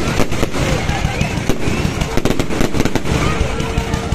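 Fireworks going off in a rapid, dense string of bangs and crackles, many reports a second, over a steady rumble of further explosions.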